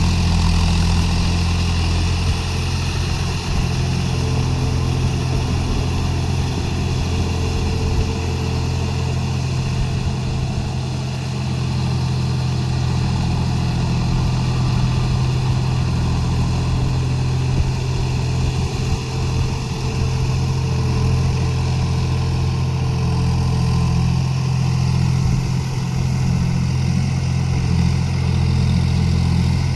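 John Deere 5050D tractor's three-cylinder diesel engine running steadily at an even speed.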